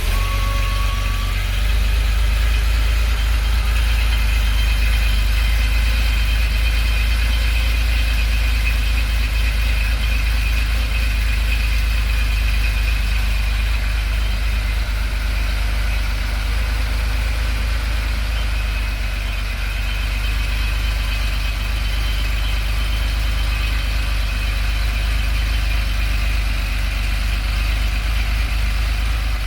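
Porsche 964's air-cooled flat-six idling steadily just after a cold start.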